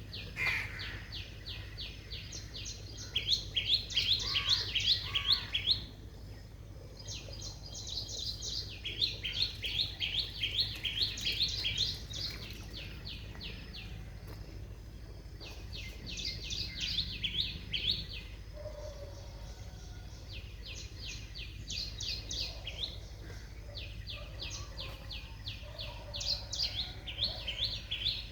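Small birds singing in fast runs of repeated high chirps, in bouts of a few seconds each with short pauses between, over a steady low hum.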